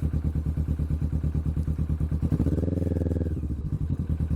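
Kawasaki Vulcan S's 649 cc parallel-twin engine through a Hoonk twin aftermarket exhaust, running with a steady pulsing beat. The revs rise briefly about two seconds in, then drop back.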